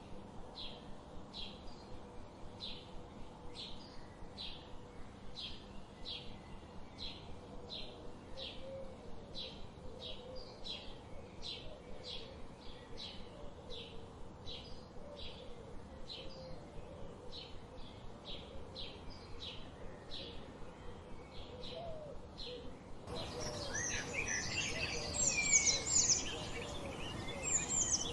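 Wild birdsong: a bird repeats a short, high chip note at a steady pace of about two a second, over faint lower calls. About 23 seconds in, a louder and busier chorus of several birds chirping and trilling takes over.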